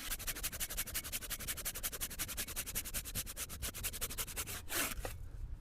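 Hand saw cutting a dry log, a fast, even rasp of the teeth through the wood that stops about four and a half seconds in. A short breathy grunt follows.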